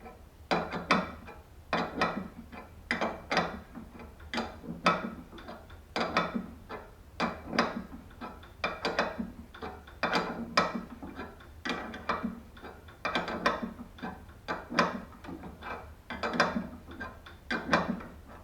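Ratchet wrench clicking in short back-and-forth strokes, about one a second, as it turns the screw of a door-hinge spring compressor.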